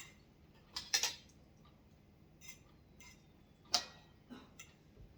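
Utensils clicking and tapping against dishes during a meal: a few sharp clicks about a second in and again just before four seconds, with fainter taps in between.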